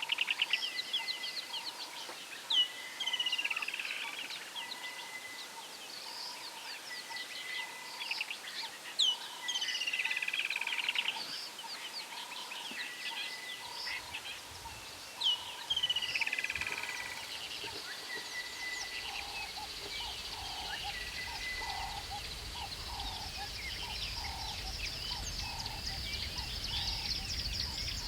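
Several birds calling and chirping over one another, short sliding high notes in quick succession, with a row of soft lower repeated calls beneath. From about two-thirds of the way in, a steady high insect drone builds and a low rumble joins.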